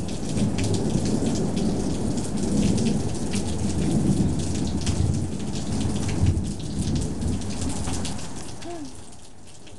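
Rolling thunder rumbling for several seconds and dying away near the end, over steady rain.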